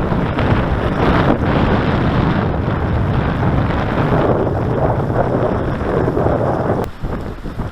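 Wind buffeting the microphone: a loud, steady rush of wind noise that drops off sharply near the end.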